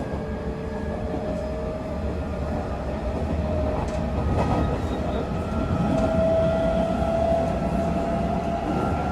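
Mitsubishi GTO-thyristor VVVF traction inverter and motors of a Hanshin 9000 series train whining under power, the pitch climbing slowly and the sound growing louder as the train gathers speed, over the low rumble of the wheels on the rails, heard from inside the car.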